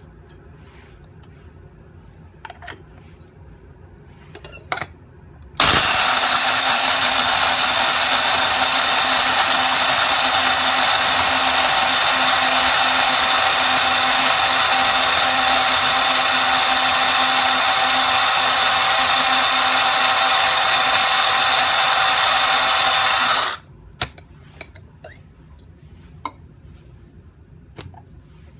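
Cordless electric blade coffee grinder running: a loud, steady motor whir that starts abruptly about five seconds in, holds for about eighteen seconds and cuts off. A few light clicks and handling knocks come before and after it.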